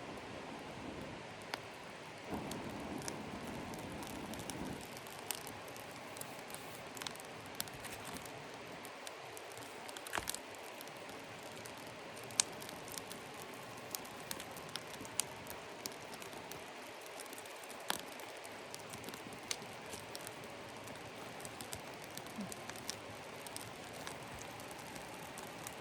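Steady rain, with scattered sharp ticks and pops through it and a short stretch of louder rustling a couple of seconds in.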